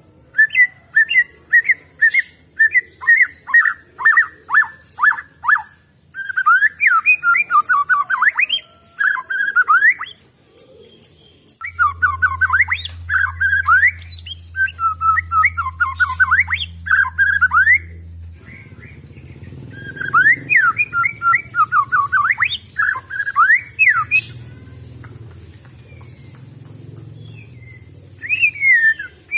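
White-rumped shama (murai batu) singing: loud phrases of rapid, sweeping whistled notes, broken by short pauses. A low steady hum runs under the song from about twelve seconds in.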